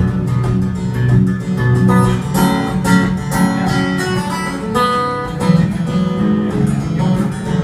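Acoustic guitar playing an instrumental passage without singing: a picked melody over repeated bass notes.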